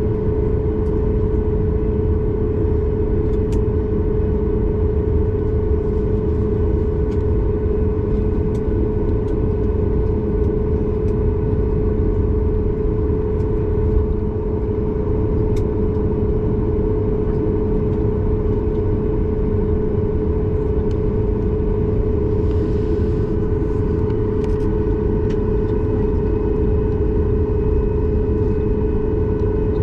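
Boeing 737 MAX 8 cabin noise heard from a window seat: the CFM LEAP-1B engines and airflow make a steady low rumble with a strong constant hum, unchanging throughout.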